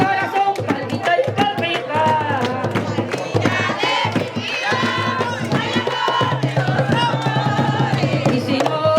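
Panamanian tamborito: hand drums beating a quick, steady rhythm, with high voices singing over them.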